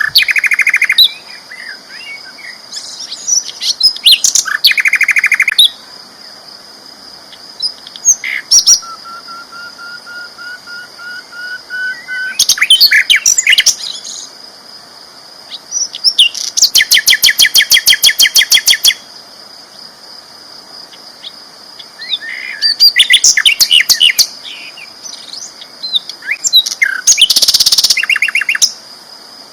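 A sikatan londo flycatcher singing loudly in bursts of a few seconds with pauses between them: chattering phrases, rapid evenly repeated trills and one thin, slowly rising whistle. A steady high-pitched tone runs underneath.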